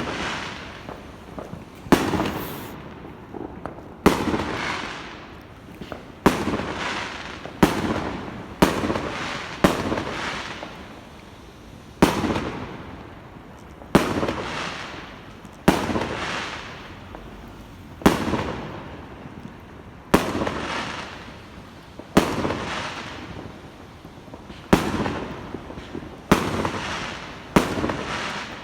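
Fireworks going off, with a sharp bang about every two seconds, each trailing away over about a second.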